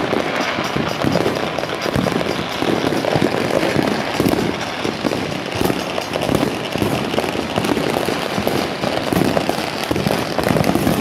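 Fireworks and firecrackers going off in a dense, continuous barrage of bangs and crackling, with no pause.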